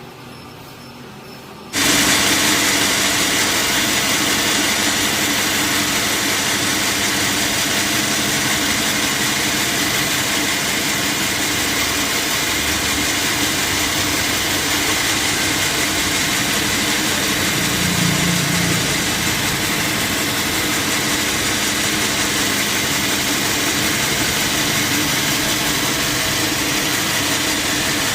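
Sawmill machinery cuts in abruptly about two seconds in and runs steadily: a loud, even mechanical drone with a constant hum.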